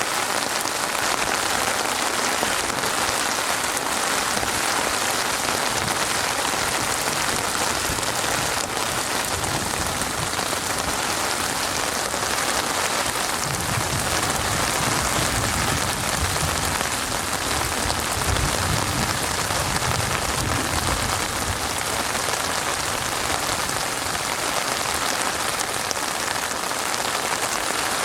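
Steady, even rain falling and pattering on surfaces, a dense hiss of drops. About halfway through, a soft low rumble swells under the rain for several seconds and fades.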